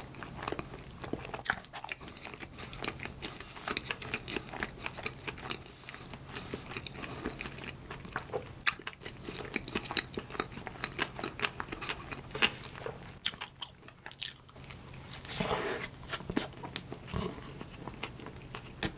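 Close-miked eating of soft bakery bread: biting and chewing, heard as a steady run of many short mouth clicks and smacks.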